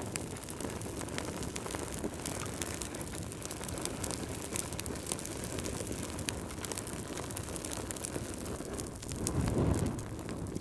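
Wood fire burning: a steady low rumble with frequent small crackles and pops, swelling louder for a moment near the end.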